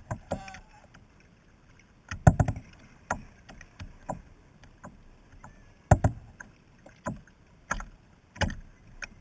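Kayak paddling: paddle blades dipping and splashing with hollow knocks of the paddle against the kayak hull, about one stroke a second. The two loudest knocks come about two and six seconds in.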